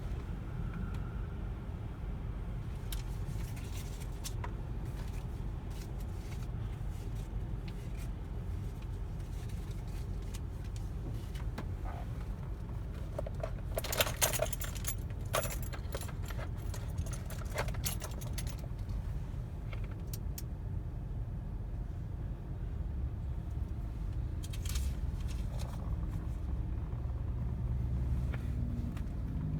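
Steady low rumble of a car sitting in an automatic car wash, with a burst of metallic jingling and clicks about halfway through.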